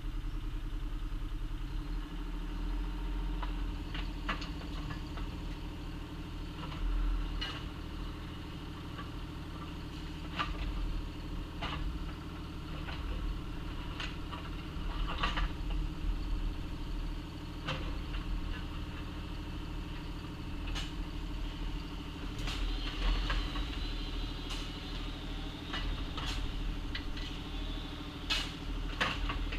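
Excavator's diesel engine running steadily while digging, with sharp clanks every second or few seconds as the bucket works gravel and dirt.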